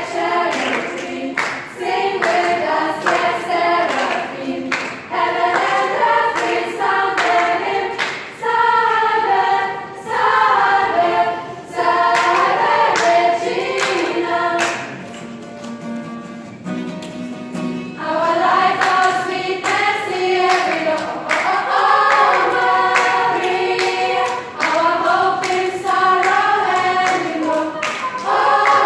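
Youth choir singing, with a softer, lower passage about halfway through before the full choir comes back in.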